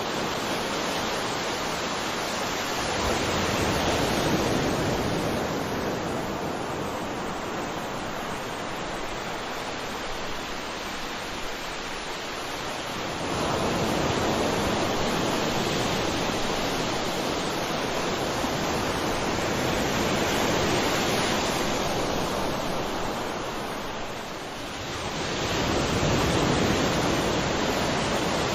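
Sea waves breaking on a shore: a continuous wash of surf that swells and ebbs, with a fresh wave surging in about thirteen seconds in and another near the end after a brief lull.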